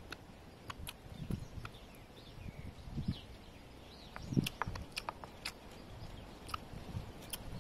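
Close-up chewing and mouth smacking, with sharp, irregular clicks of a spoon scraping and tapping on the tray as rice and squid are scooped up, the clicks thickest in the second half.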